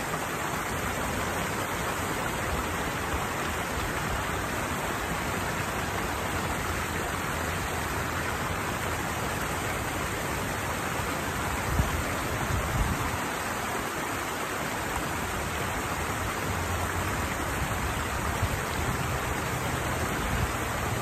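Water pouring steadily over a small weir into a flowing channel, a constant even rush, with a couple of dull bumps near the middle.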